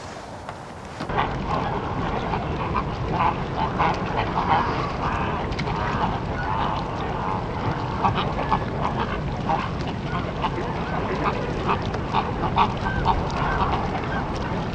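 Many birds calling over one another, a dense run of short repeated calls with a steady low rumble underneath, starting abruptly about a second in.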